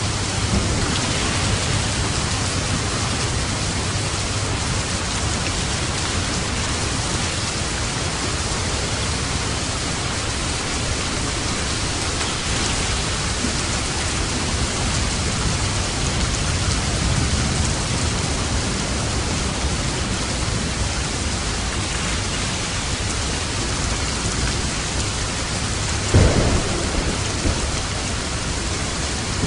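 Steady heavy rain falling, with a low rumble of thunder underneath and one sudden, louder thunderclap near the end.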